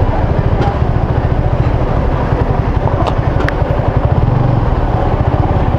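Motorcycle engine running steadily, a rapid low pulse under the ride, with a few faint clicks.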